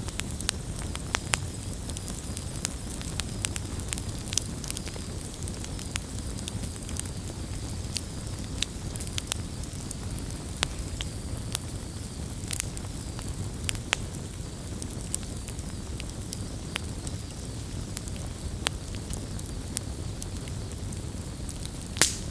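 Wood campfire burning: a steady low rumble of flames with sharp crackles and pops at irregular intervals, the loudest pop near the end.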